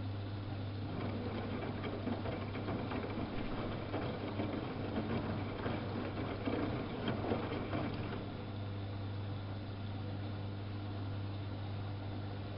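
Samsung WF71284 front-loading washing machine turning its drum: laundry and water slosh and patter for about seven seconds, then the drum stops, leaving only a steady low hum.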